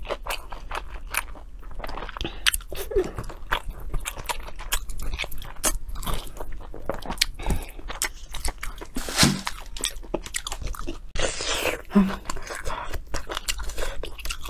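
A person biting and chewing glazed roast meat close to the microphone: a steady run of sharp clicks and crunches.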